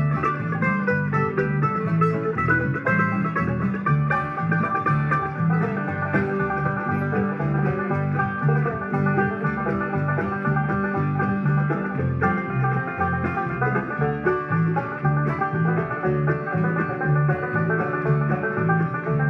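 Country-bluegrass band playing an instrumental break with no singing: banjo picking over guitar, with low bass notes on a steady beat.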